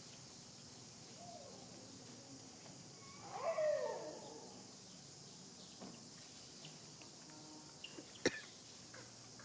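A monkey calling once, a short pitched cry that falls in pitch about three seconds in, over a faint steady hiss; a sharp click near the end.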